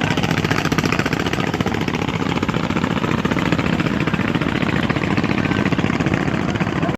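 A boat's engine running steadily with a rapid, even throb.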